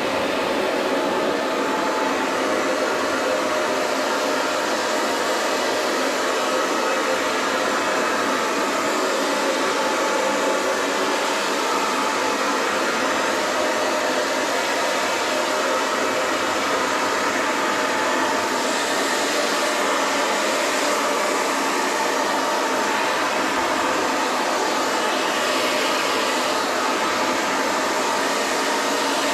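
Handheld hair dryer blowing steadily, its motor and airflow making an even rushing hiss.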